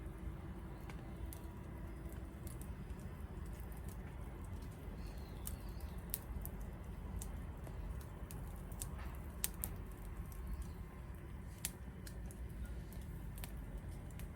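Wood fire burning: scattered sharp crackles and pops, a few louder than the rest, over a low steady rumble of the flames.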